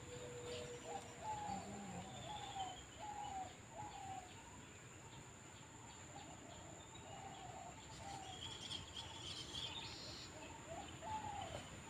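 Birds calling: runs of short down-slurred notes, a few a second, that come and go, with fainter high chirps among them and a steady thin high-pitched tone underneath.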